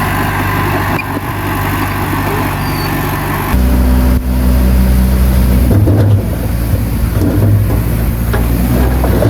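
Heavy diesel engine of earthmoving machinery running. About three and a half seconds in it turns louder and deeper, as under load, with an uneven throb after that.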